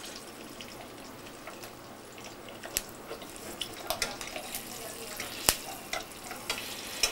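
Floured partridge frying in olive oil in a saucepan: a steady sizzle, with sharp crackles and clicks starting about a third of the way in, the loudest a little past halfway.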